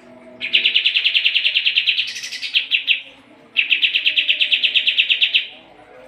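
Kapas tembak songbird singing loud, rapid machine-gun trills of fast repeated notes, about fifteen a second. There are two runs about two seconds long, the first rising briefly higher about two seconds in, with a short pause between them.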